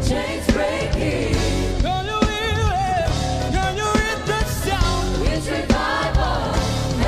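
Gospel choir singing with live band accompaniment, a strong bass and drums; a lead voice holds wavering, vibrato notes about two seconds in.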